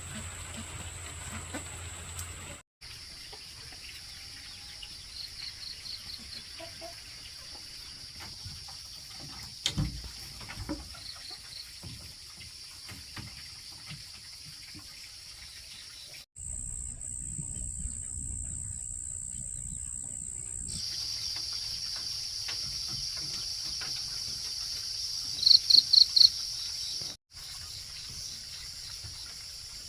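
Steady high-pitched insect drone that shifts in pitch at several abrupt cuts. There is a single knock about ten seconds in, and a burst of four loud quick chirps near the end.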